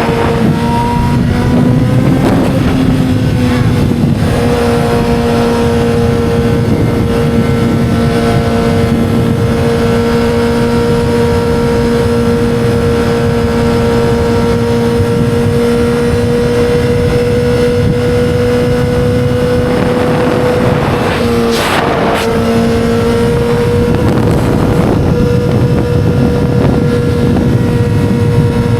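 2007 Yamaha YZF-R6's 600 cc inline-four engine running at a steady high pitch, as when riding at constant speed, over a noisy rush. About two-thirds of the way through, the pitch dips briefly and then returns.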